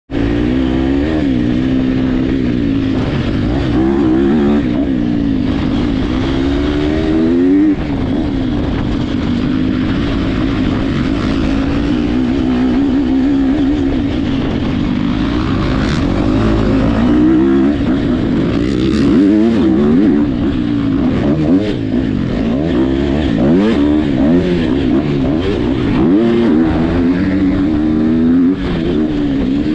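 Motocross dirt bike engines racing, revving up and dropping back as they shift gears over and over, several bikes overlapping at once.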